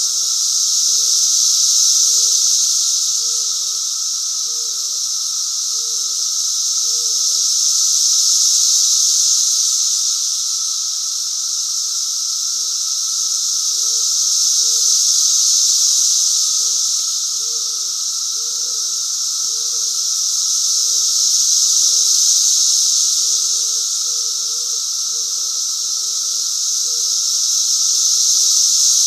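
Loud chorus of periodical cicadas: a high, hissing buzz that swells and fades in waves every six or seven seconds over a steady lower drone. Faint short low chirps repeat about once a second beneath it.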